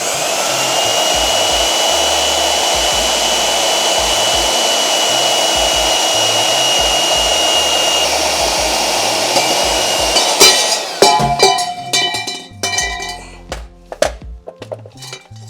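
Portable band saw running steadily as it cuts through exhaust tubing, with a steady whine over the noise, stopping abruptly about ten seconds in. A run of metal clinks and knocks follows.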